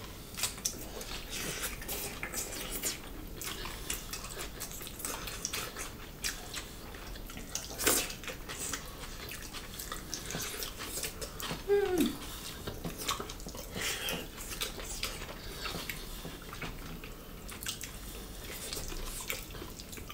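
Close-miked eating sounds: wet chewing, lip smacks and squishing of rice and mushrooms eaten by hand, in scattered short clicks. A brief falling hum comes about twelve seconds in.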